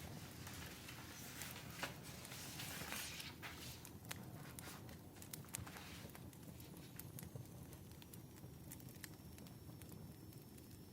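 Wood fire crackling: irregular small pops and snaps over a low steady rumble, with a hissing swell during the first few seconds.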